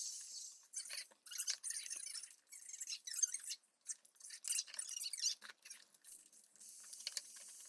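Close-up eating: crisp, irregular crackles and clicks of chewing, with a softer steady hiss near the end.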